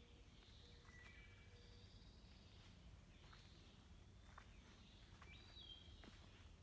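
Faint woodland bird song: several birds singing short whistled notes and trills over a low steady background hum.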